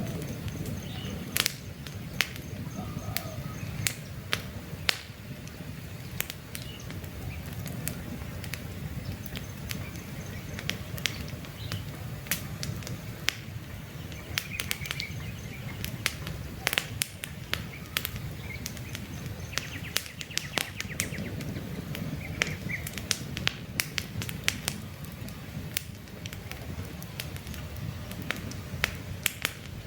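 Wood campfire burning with a low steady rumble and frequent sharp, irregular crackles and pops from the logs. Faint bird chirps sound here and there in the background.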